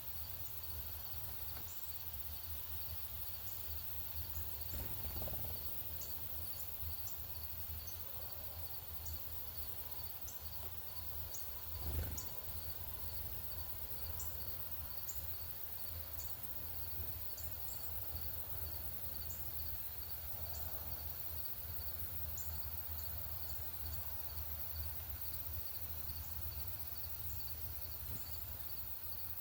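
Outdoor ambience: a steady, evenly pulsing insect trill and many short, high bird chirps scattered throughout, over a constant low rumble. A single thump comes about twelve seconds in.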